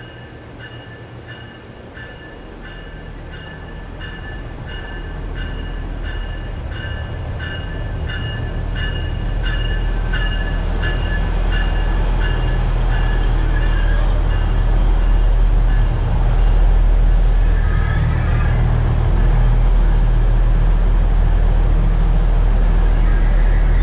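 UP Express diesel multiple-unit train pulling into the platform. A bell rings about twice a second for the first dozen seconds while the low rumble of the train swells as the cars draw alongside, with a brief squeal about three-quarters of the way through.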